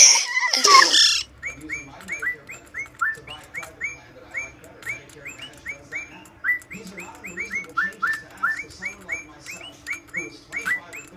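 Pet bird chirping in a long run of short, upward-hooked chirps, about three or four a second, after a brief voice at the very start.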